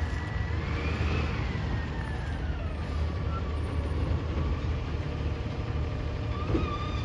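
Garbage truck's diesel engine running with a low rumble, its whine rising about a second in, then falling and settling lower.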